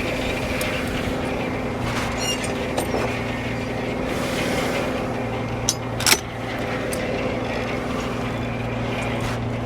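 Vintage Frick No. 1 sawmill running with a steady drone. A few sharp knocks, the loudest about six seconds in.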